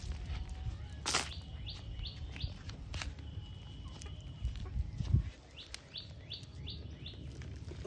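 A bird calling in runs of short, falling chirps: four in quick succession about two seconds in and five more near the end, with a held whistled note in between. A sharp click and a low thump are also heard.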